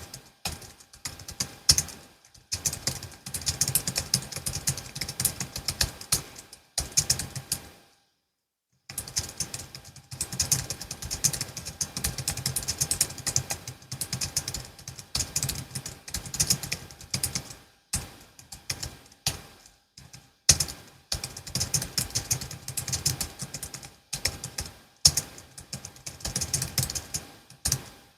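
Typing on a Logitech MX Keys S keyboard with its low-profile scissor-switch keys: runs of rapid keystroke clicks broken by short pauses, with a brief complete silence about eight seconds in.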